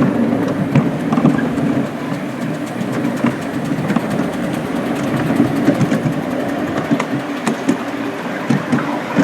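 Miniature railway train running along the track: a steady rumble of wheels on rails, broken by irregular clicks and knocks over the rail joints.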